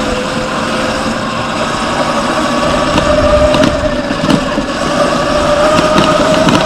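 Surron X Light Bee electric dirt bike's motor whining under way, its pitch rising slowly as the bike speeds up, over the rumble and clatter of the bike riding rough sandy ground.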